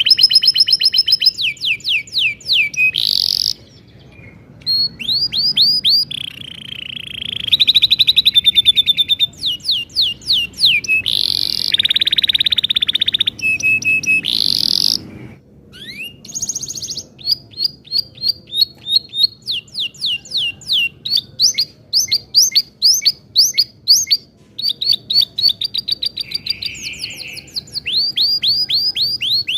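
Domestic canary singing a long, fast song of rapidly repeated sweeping notes and buzzy rolls, with a short pause about halfway through.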